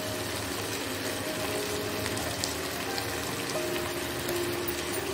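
Onion and green pepper pieces sizzling in oil in a non-stick wok, a steady frying hiss.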